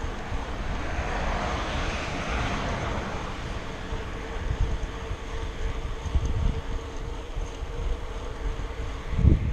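Wind buffeting the microphone on a moving bicycle, a gusty low rumble, under a steady engine hum. A passing engine swells and fades over the first few seconds.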